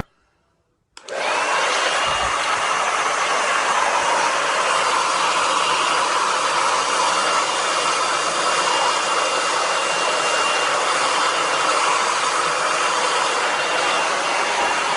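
A small electric motor with a fan, like a blower appliance, starts about a second in. It runs steadily with a loud airy rush and a high whine that rises briefly as it spins up, then holds level.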